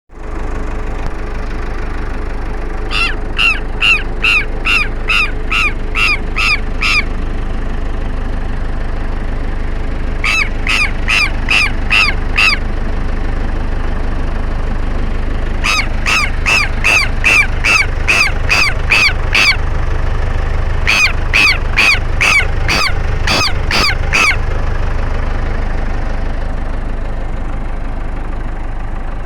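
Southern lapwing (tero) giving its loud, harsh alarm calls in four bursts of rapid repeated notes, a few calls a second, typical of the bird mobbing an intruder near its nest. A steady low rumble continues underneath.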